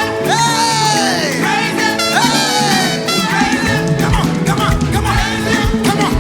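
Live upbeat praise-and-worship band music with singing and a steady beat.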